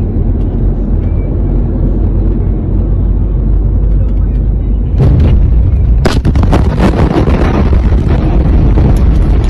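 Loud, distorted low rumble of the Beirut port explosion overloading phone microphones. From about six seconds in, sharp crackles and knocks break through it.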